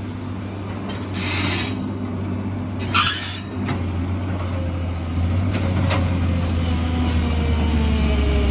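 Heavy diesel construction machine running steadily, slowly growing louder, with two short bursts of hissing about one and three seconds in.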